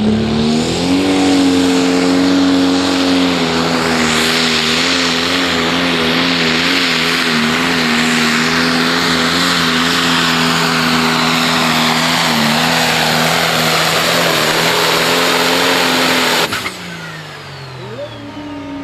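Pro Stock pulling tractor's turbocharged diesel engine at full throttle under load during a pull, its pitch climbing about a second in and then holding nearly steady. About sixteen seconds in the sound drops off suddenly and the engine winds down, the pull ending.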